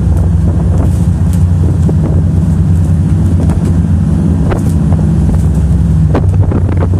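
Motorboat engine running steadily, with wind buffeting the microphone and a few brief knocks about four and six seconds in.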